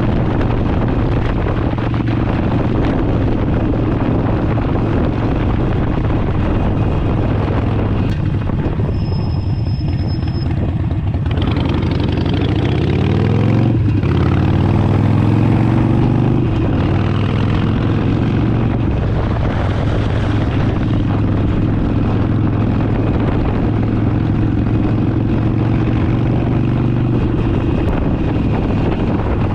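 Harley-Davidson Forty Eight's air-cooled 1200 cc V-twin running steadily under way, its note rising as it speeds up about halfway through.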